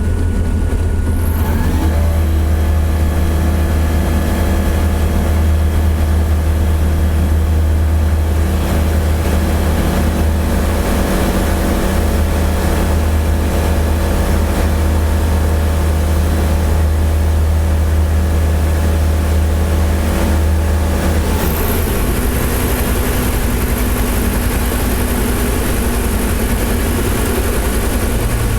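A Diamond DV20 Katana's Rotax 912 four-cylinder engine runs at takeoff power, rising in pitch early on as it spools up. About three-quarters of the way through, the sound drops abruptly to a lower, rougher idle as the throttle is pulled back to simulate an engine failure after takeoff.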